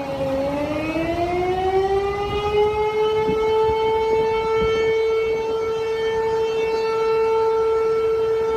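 Dam warning siren sounding before the gates open: a motor-driven siren's wail dips, climbs over about three seconds, then holds a steady high tone. A low rushing noise runs underneath.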